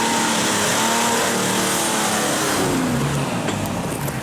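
Off-road 4x4 engine revved hard under load, its pitch climbing and then falling away over the last second or so, with a dense rushing noise throughout.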